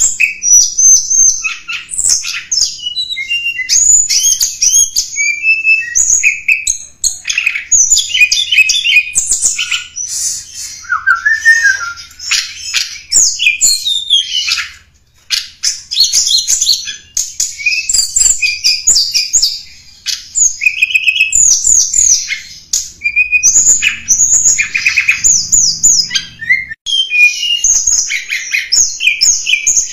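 Tledekan gunung songbird singing a lure song of rapid, high chirps and twittering trills, phrase after phrase, with a brief pause about halfway.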